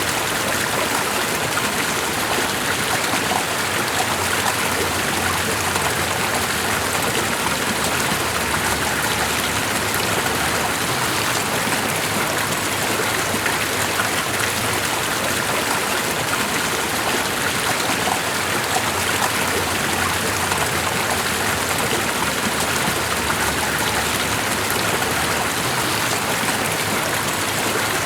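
Steady rushing water, an even, unchanging hiss.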